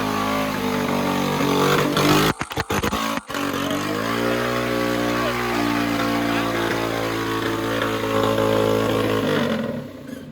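Small mini-bike engine running close by, dipping out briefly a couple of times about two seconds in, then revving up and holding higher revs before cutting away near the end.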